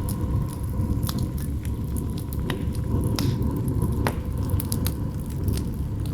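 Campfire crackling, with irregular sharp pops of burning wood, over a steady low rumble of wind.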